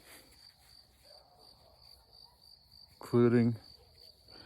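Crickets chirping in a steady, even pulse of high notes, several a second. A short spoken word breaks in about three seconds in.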